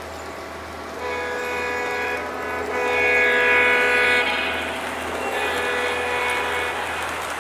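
Locomotive air horn sounding three blasts, a chord of several steady notes. The middle blast is the longest and loudest.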